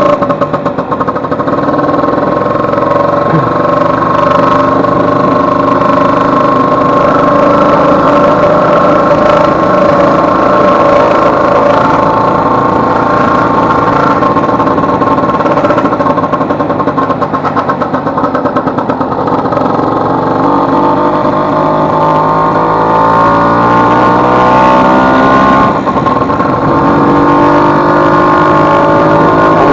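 Vespa 150's two-stroke single-cylinder scooter engine running under way, its pitch rising and falling with the throttle, with a brief drop in level about 26 seconds in. This is a test ride after a broken elastic pinion was replaced, and the engine is going well.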